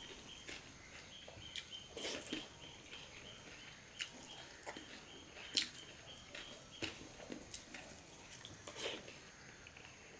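Chewing and lip smacking from a man eating rice mixed with vegetable chorchori by hand, with his fingers mashing the rice on a steel plate: irregular wet smacks and clicks, about one a second.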